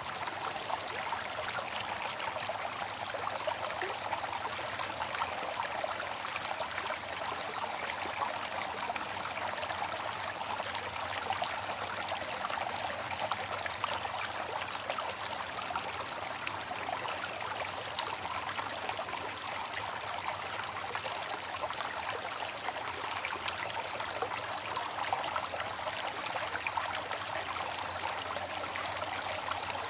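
Water fountain running, its falling water splashing in a steady, unbroken rush.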